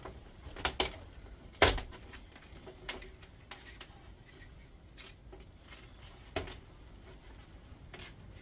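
Scattered sharp clicks and knocks of metal parts and hand tools being handled while stripping an induction hob, with the loudest knock about a second and a half in and a few lighter ones spread out after it.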